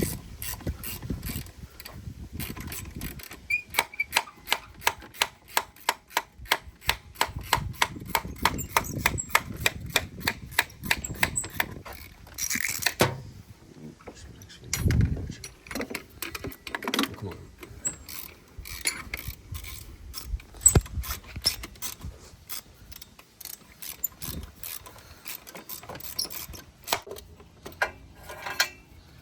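Socket ratchet wrench clicking in long runs as a stiff, rusty bolt is worked out of the power steering pump mount, with occasional metal knocks and a sharp clank.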